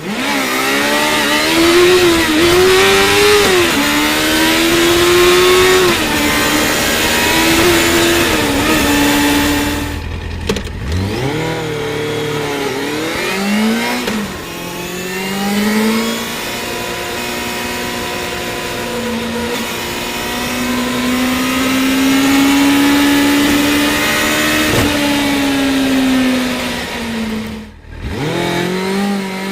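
Yamaha FZ6's 600 cc inline-four engine under way, revving up and falling back through the gears in repeated climbs. The sound breaks off briefly at the shifts, about ten seconds in and again near the end, with a steady hiss over it.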